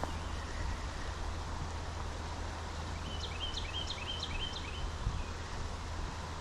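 Steady rush of a flowing creek with a low rumble of wind on the microphone. About halfway through, a songbird sings a quick series of about six repeated, down-stepping notes.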